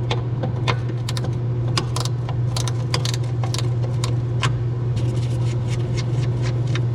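Irregular metallic clicks and clinks of tools and small parts being handled, over a steady low hum.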